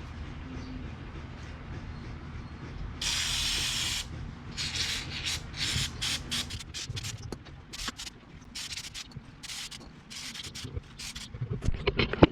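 Aerosol can of chain lubricant spraying onto a motorcycle chain: one hiss about a second long roughly three seconds in, then a run of short hissing strokes. A few knocks come near the end.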